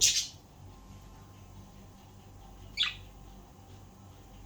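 Pet budgerigar calling: a short, high chirp right at the start, then a single brief chirp falling in pitch about three seconds in.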